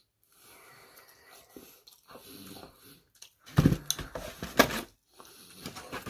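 Close-miked chewing of a crisp fried spring roll. About three and a half seconds in comes a loud run of squeaks and knocks as the lid of a foam takeout container is swung shut.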